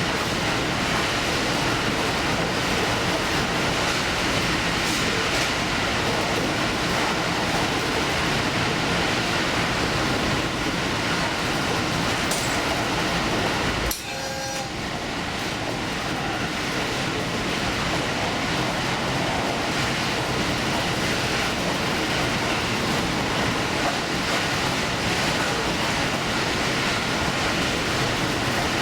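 Steady running noise of a diesel express train under way, with wheels on rail. About halfway through, the noise drops off suddenly, then builds back up over a few seconds.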